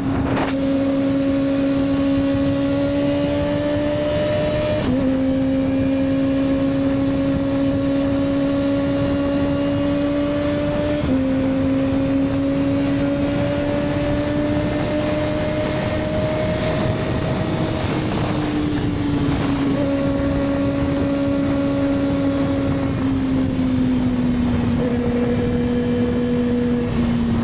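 Motorcycle engine running at steady revs while riding. Its droning pitch creeps up slowly and drops back slightly four times.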